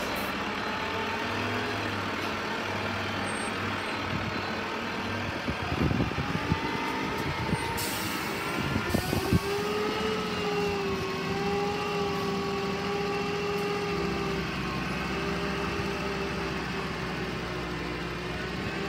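Heavy diesel engine running steadily, its pitch rising somewhat partway through and then holding, with a few metal clanks and a short hiss of air near the middle.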